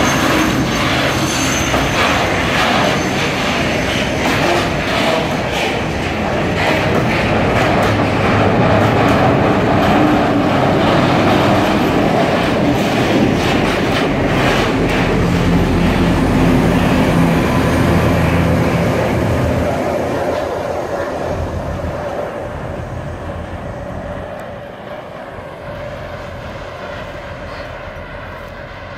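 Loaded freight train of tank wagons rolling past, with clicking from the wheels over the rail joints. About halfway through, the class 742 diesel-electric locomotive at the rear passes with its diesel engine running as the train works up the grade. The sound then fades as the train draws away.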